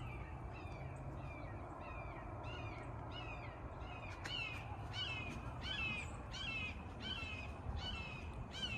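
Hawks calling overhead: a long series of short, high, down-slurred calls, about two a second, louder in the middle of the run.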